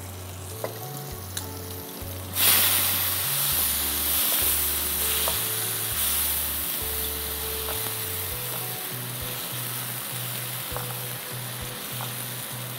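Onion, ginger and garlic paste frying in oil in a non-stick frying pan. It starts sizzling suddenly about two seconds in and keeps sizzling steadily as a spatula stirs it: the masala paste is being sautéed down (koshano). Background music with slow low bass notes plays underneath.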